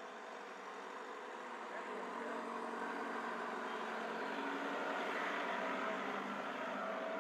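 Kubota MU5501 tractor's four-cylinder diesel engine running steadily, growing louder about two seconds in.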